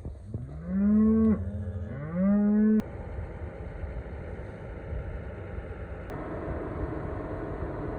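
A cow moos twice, each call starting low and rising in pitch. About three seconds in, the sound gives way to a steady engine rumble.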